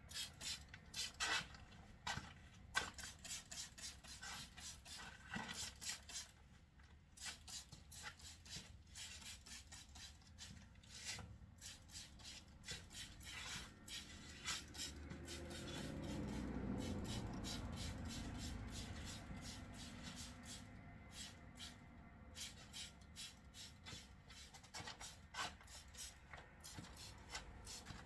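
Brush scrubbing the wet plush of a stuffed toy duck, agitating the sprayed-on cleaning solution, in quick repeated rubbing strokes. A low rumble swells and fades midway.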